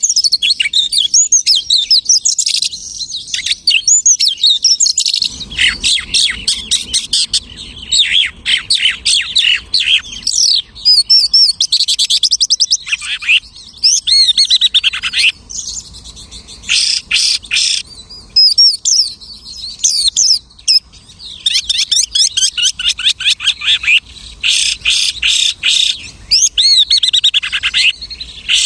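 Lark singing a long, varied song of mimicked bird calls: quick rising and falling whistles, trills and fast rattling runs of repeated notes, broken by short pauses between phrases.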